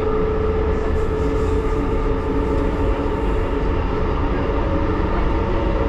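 1938 Tube Stock train heard from inside the carriage, running at a steady speed: a continuous low rumble from wheels and running gear with a steady whine over it.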